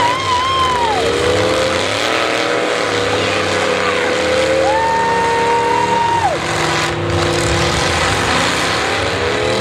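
Demolition derby car engines running and revving hard, several at once, their pitch rising and falling. About halfway through, one engine jumps to a high held rev for a second and a half, then drops back.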